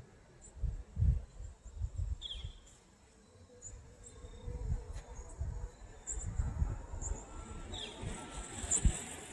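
Uneven low rumbling gusts, like wind buffeting the microphone, over a thin, steady high insect buzz, with a few short high bird-like chirps.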